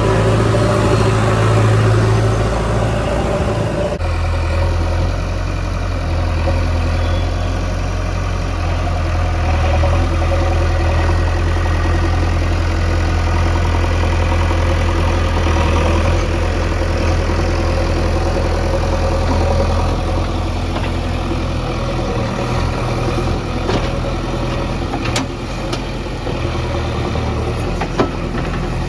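Heavy earthmoving machine's diesel engine running steadily under load, its low hum dropping slightly in pitch about four seconds in. A few sharp clicks or knocks near the end.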